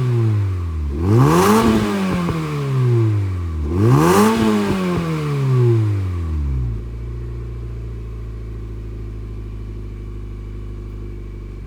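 Honda Fit RS (GE8) four-cylinder engine breathing through an Apexi N1 evolution aftermarket muffler, revved twice while parked. Each rev rises quickly and falls slowly back, and then the engine settles into a steady idle for the last few seconds.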